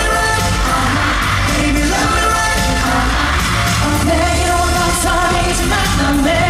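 K-pop dance track with male group vocals over a steady heavy bass beat, played loud through a concert venue's sound system.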